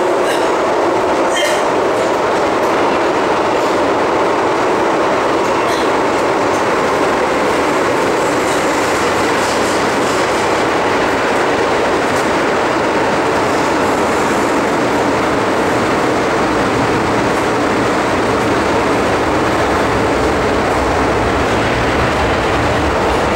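MTR M-Train electric multiple unit (Metro Cammell) running at speed through the tunnel. Its steady wheel-and-track rumble gets deeper over the second half, with some clickety-clack.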